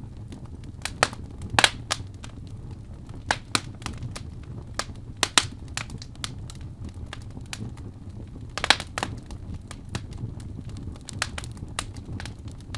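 Wood fire burning in a fireplace: a steady low rumble of flame with irregular sharp crackles and pops, the loudest about a second and a half in and near nine seconds in.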